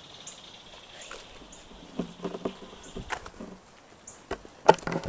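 Quiet outdoor ambience with a faint steady high buzz, like insects. Irregular soft knocks and thuds, like footsteps or handling of the camera, start about two seconds in, with a louder one near the end.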